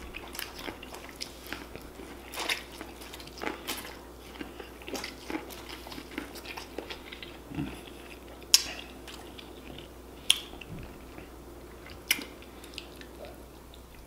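Close-miked eating: teeth biting into a sauce-dipped ear of corn on the cob, then wet chewing with many small mouth clicks. A few sharper, louder smacks come in the second half.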